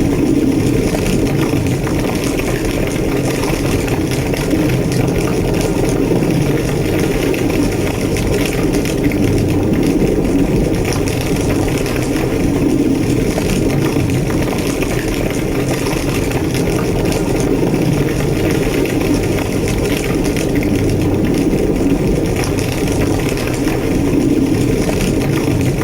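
Large structure fire burning: a steady, deep roar with small crackles scattered through it.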